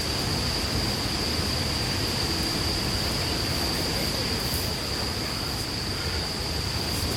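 Wood campfire burning with a steady hiss and a few faint crackles about halfway through. A continuous high, thin tone runs under it.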